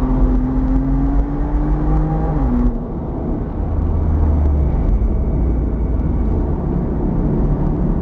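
BMW M car's turbocharged straight-six heard from inside the cabin under hard acceleration on track, its note rising with an upshift about two and a half seconds in. Soon after, the throttle lifts and the car brakes for a corner, and the engine settles to a lower rumble.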